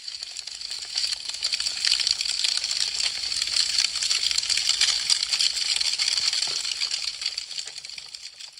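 Wood fire crackling: a dense run of sharp snaps and pops from burning branches, swelling in over the first second and fading out near the end.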